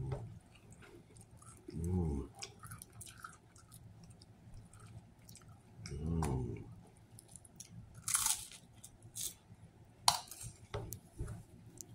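A person chewing a toasted sandwich with wet, clicking mouth noises, humming short low 'mm's twice between mouthfuls. Two louder, crunchier bites or tears come in the second half.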